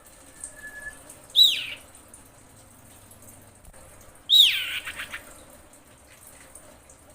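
Female common iora in breeding condition, calling for a male: two loud downward-sweeping notes about three seconds apart, the second longer with a few short notes trailing after it.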